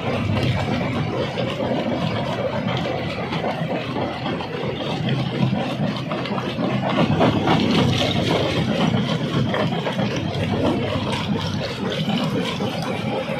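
Stone-crushing machinery running steadily: a continuous heavy engine-like drone with many small knocks and clatters throughout, a little louder around the middle.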